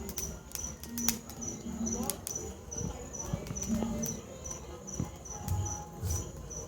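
An insect, most likely a cricket, chirping in a high, even pulse about twice a second, with scattered sharp clicks and cracks.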